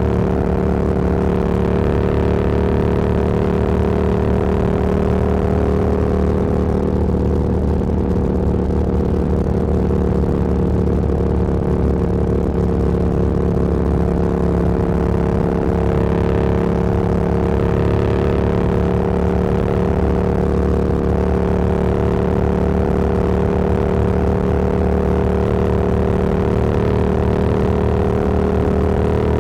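Motorcycle engine running at a steady cruising speed, its pitch nearly constant, with wind rushing past that swells and fades.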